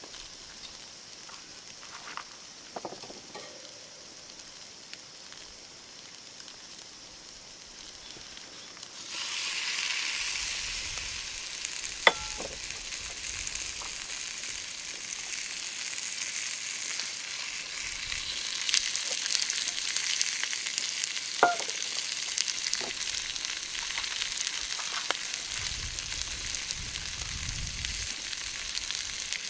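Food sizzling in hot oil in a small frying pan on a campfire: a faint sizzle that jumps suddenly louder about nine seconds in, as if more food has gone into the pan, then stays steady, with a few sharp clicks.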